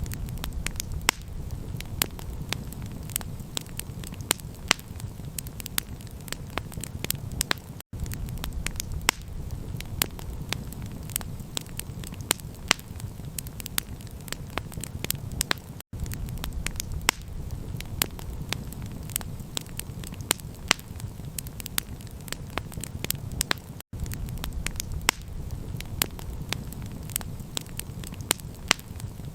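Campfire crackling: a steady stream of sharp pops and snaps over a low, even rumbling hiss. The sound drops out briefly about every eight seconds.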